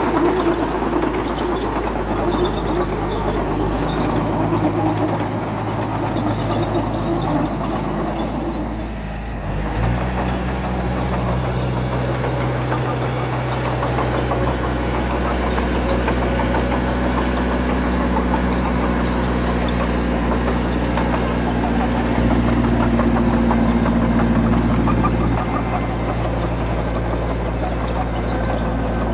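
Diesel engine of heavy earthmoving equipment running steadily. About nine seconds in the sound briefly drops, then carries on at a different, steadier engine note.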